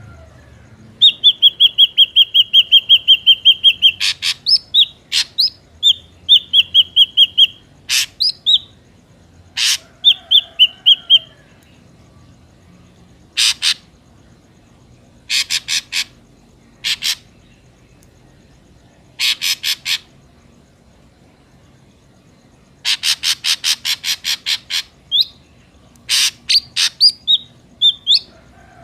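Ashy drongo calling: a quick run of evenly repeated clear whistled notes, then short flicked whistles mixed with harsh, rasping chatters, in phrases broken by short pauses.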